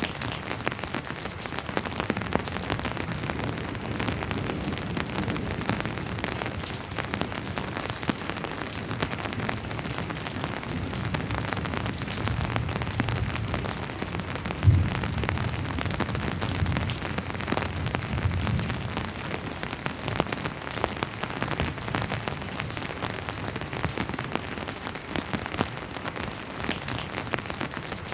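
Steady rain falling on a hard surface, thick with the ticks of individual drops. A low rumble of distant thunder swells under it through the middle, and one sharp knock stands out about halfway through.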